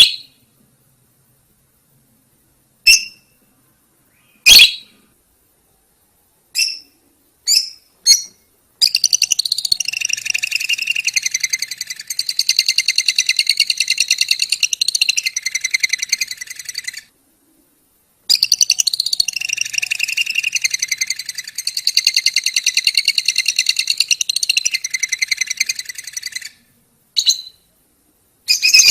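Lovebird calling: a few short, sharp chirps, then two long runs of fast, rattling high chatter of about eight seconds each, the lovebird's 'ngekek' song, and one more short chirp near the end.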